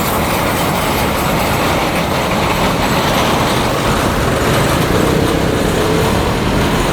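ONCF phosphate freight train rolling past on the rails, a steady loud rumble with a faint squeal from the wheels about five seconds in.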